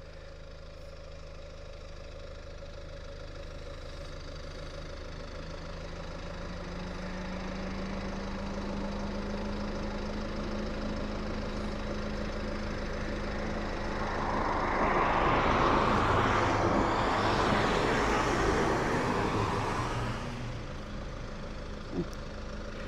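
Car engine running, its hum rising slightly in pitch as the car pulls the caravan away on a short test drive after a squeaking wheel was greased. About 14 seconds in a louder rushing of the rig rolling past builds for some six seconds, then fades.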